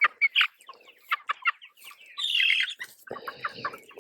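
A flock of young meat chickens clucking and peeping in many short calls, with one louder, longer call about two seconds in.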